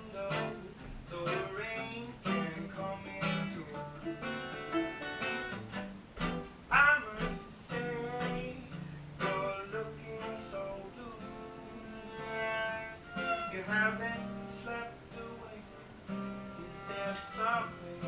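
Live acoustic guitar music, picked and strummed steadily, with a sustained melody line over it.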